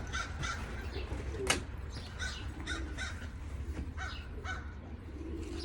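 Racing pigeons cooing low in the loft, mixed with many short, repeated, higher bird calls. A single sharp click sounds about a second and a half in, over a steady low hum.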